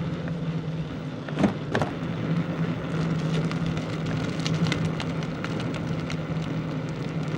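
A steady mechanical hum, like a motor running, with scattered crackling and ticking over it and two sharp clicks about a second and a half in.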